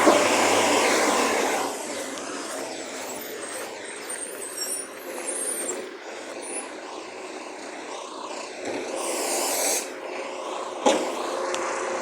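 Recycling truck running, loud for the first couple of seconds and then quieter, with a short hiss near the end and a sharp knock just after it.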